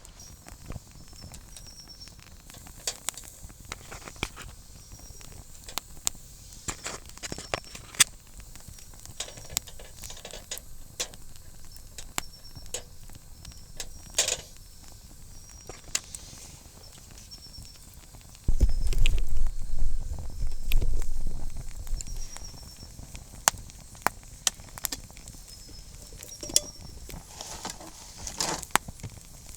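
Wood campfire crackling with irregular sharp pops under grilling skewers, over faint high chirps repeating in the background. A low rumble swells for a few seconds past the middle.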